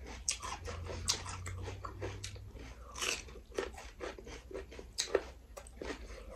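Close-up eating sounds: chewing and crunching food, with irregular small smacks and clicks.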